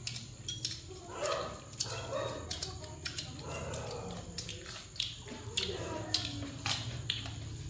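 Crunchy chewing of deep-fried field rat, with sharp crackling clicks throughout. A dog yips and whines several times in the background.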